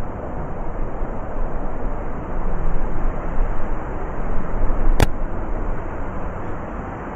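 Blizzard wind blowing in gusts, a deep rushing noise that swells for a few seconds and then eases off near the end. A single sharp click is heard about five seconds in.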